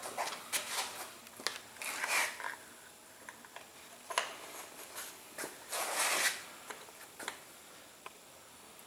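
Scattered light clicks and short rustling sounds of parts and hand tools being handled during engine assembly.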